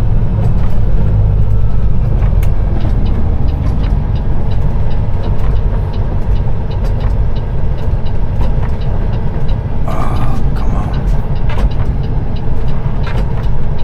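Peterbilt 389 semi truck driving on a snowy highway: a steady, loud low rumble of engine and road noise. Scattered faint clicks run through it, and a short mid-pitched sound comes about ten seconds in.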